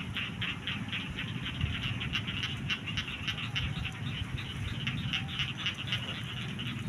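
Frogs calling in a dense chorus of quick, repeated clicking pulses, over a low steady rumble.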